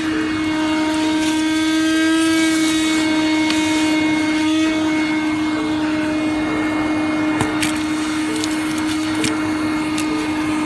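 DeWalt DCV580H 20V MAX cordless wet/dry shop vac running with a steady high-pitched motor whine, with a few light clicks in the second half.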